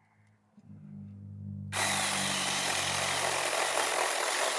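A Saker mini electric chainsaw. Its motor starts up with a low hum a little over half a second in, then just under two seconds in the chain bites into dense crape myrtle hardwood, and the loud, steady cutting noise holds from there on.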